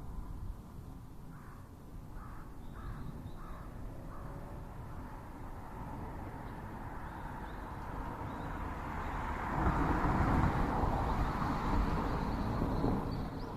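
A crow cawing four times in quick succession early on. About ten seconds in comes a louder, broad rush of noise that lasts a few seconds.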